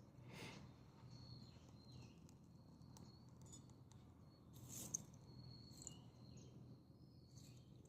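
Dry perilla twigs burning in a Solo Stove wood-burning stove, giving faint, sparse crackles and ticks; the loudest pop comes about five seconds in. A thin high-pitched tone comes and goes behind them.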